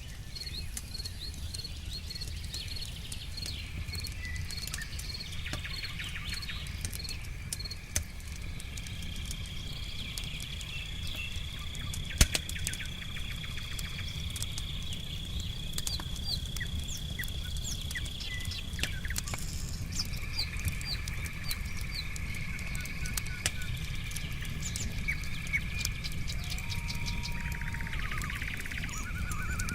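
Campfire crackling with scattered sharp pops, one much louder pop about twelve seconds in. Behind it, steady high trilling of night insects such as crickets, with a fast chirping pulse in the first few seconds.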